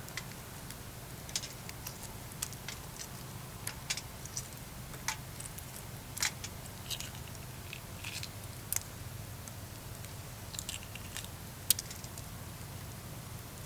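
Wood campfire crackling, with irregular sharp pops and snaps every second or so over a steady low hum.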